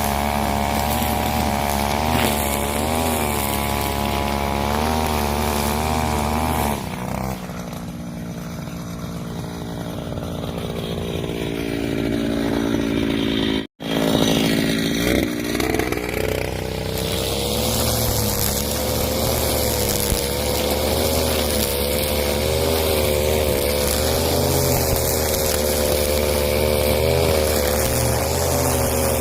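Two-stroke engine of a Husqvarna 541 brush cutter running fast, its pitch wavering as it works. About seven seconds in it eases off to a lower speed, the sound cuts out for an instant, and then it revs back up and runs steadily again.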